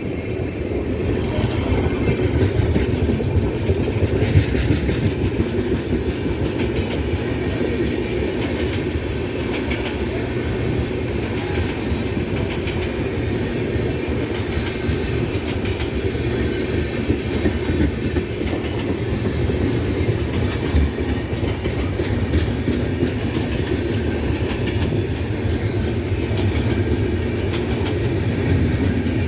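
Indian Railways passenger train passing at speed: a steady heavy rumble of wheels on rail, with rapid clicking as the wheels cross rail joints.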